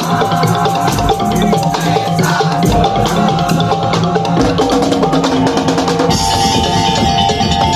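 Madurese tong-tong (ul-daul) ensemble playing: dense drum and percussion strokes under a held melodic line, with the melody shifting higher about six seconds in.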